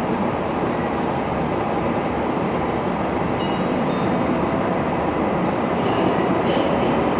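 ICE high-speed train pulling out along the platform, a steady rolling rumble from wheels and motors with a few faint, brief high squeaks, growing slightly louder near the end. It echoes under the glass roof of the train shed.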